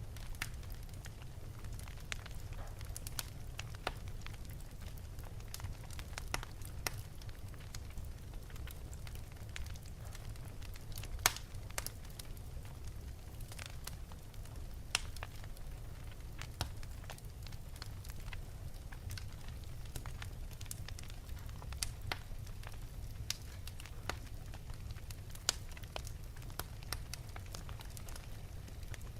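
Wood fire burning in an open fireplace: a steady low rumble of the flames with irregular sharp crackles and pops, a few of them louder, such as one about 11 seconds in and another near 25 seconds.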